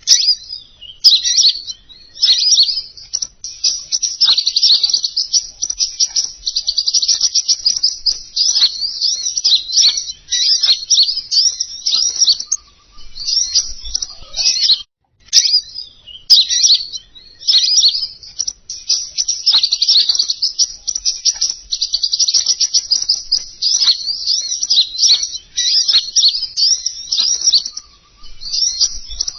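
Bird-lure recording of the songbird known in Indonesian as king konin: rapid high chirps and trills in long, near-continuous runs, broken by a brief pause about halfway through.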